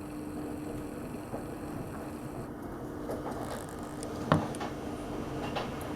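Low steady background rumble with a thin faint hum, a few small clicks and one sharp click about four seconds in.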